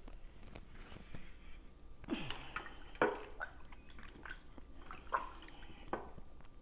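Close-miked wet eating sounds: lip smacks and squelching chews of soft, saucy food, with a handful of sharp wet clicks about a second apart.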